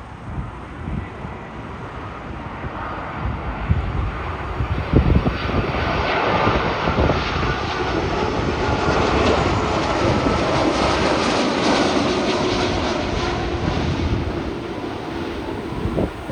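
Large jet airliner passing on landing approach, its engine noise building over several seconds to a steady rushing peak with a faint whine, then easing slightly. Wind gusts buffet the microphone throughout.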